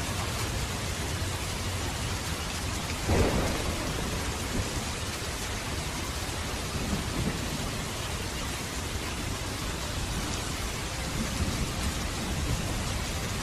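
Steady rain, with one sudden loud clap of thunder about three seconds in that dies away within about a second.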